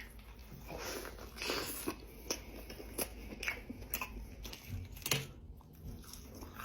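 Close-miked eating sounds: a person chewing a cheeseburger, with soft, wet, irregular mouth sounds and small clicks.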